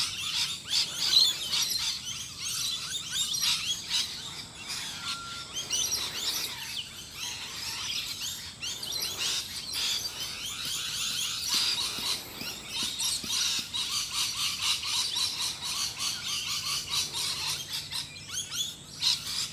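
A chorus of many birds chirping and calling at once: a dense, steady stream of quick, high-pitched notes.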